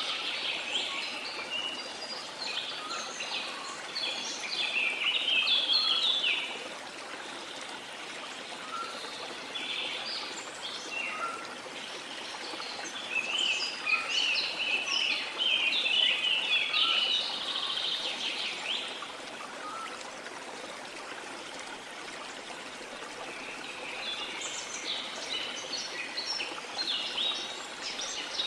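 Small songbirds chirping and twittering in several bouts with quiet pauses between, over a steady wash of moving water.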